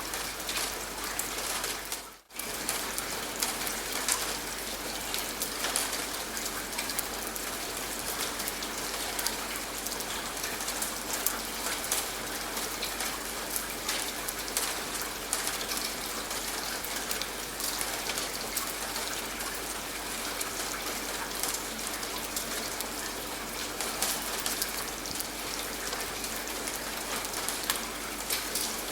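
Steady rain falling, many separate drops ticking on a surface. The sound briefly dips out about two seconds in.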